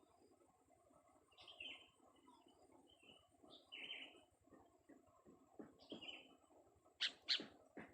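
Young sooty-headed bulbul giving a few short, faint chirps spaced a second or two apart. Two sharp clicks about seven seconds in are louder than the calls.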